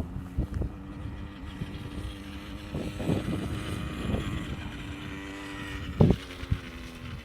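Motorbike engine running at a steady pitch, with wind buffeting the microphone in irregular low thumps.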